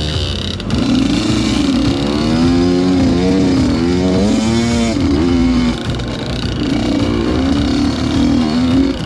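Two-stroke dirt bike engines revving, the pitch rising and falling repeatedly as the throttle is blipped, with more than one bike audible at once about two to five seconds in.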